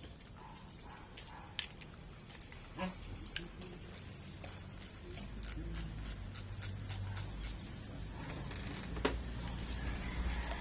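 Light metallic clicks and clinks of tools and small lawn mower carburetor parts being handled as the carburetor is opened, with a low rumble in the background from about halfway.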